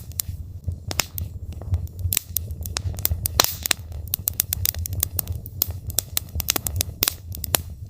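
Logs burning in a fireplace, crackling and popping in a quick irregular patter over a steady low rumble of the fire.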